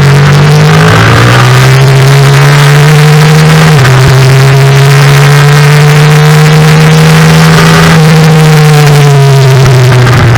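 Yamaha FZ-07 racing motorcycle's 689 cc parallel-twin engine at high revs under acceleration. Its pitch steps down sharply with upshifts about a second in and again about four seconds in, then climbs slowly and falls away over the last couple of seconds as the throttle eases off, with constant loud wind noise over it.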